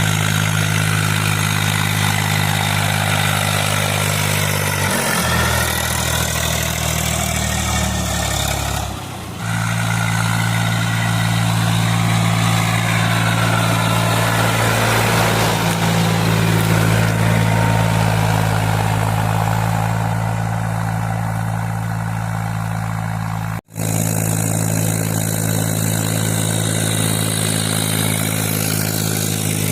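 Diesel tractor engine running steadily. Its drone changes abruptly about five and nine seconds in, and the sound cuts out for an instant a little after two-thirds of the way through.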